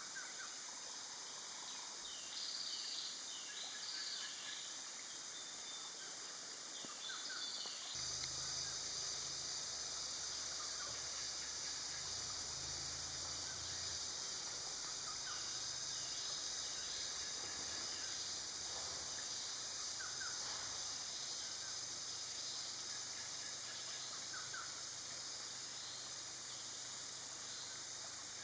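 Forest ambience: a steady high-pitched drone of insects with scattered short bird chirps and calls throughout, and a low hum that comes in about eight seconds in.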